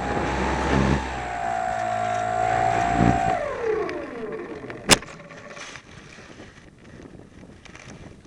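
Electric motor and propeller of a Slow Stick RC plane whining at a steady pitch, then winding down in pitch and fading from about three and a half seconds in. A sharp click comes about five seconds in, and after it only wind noise remains.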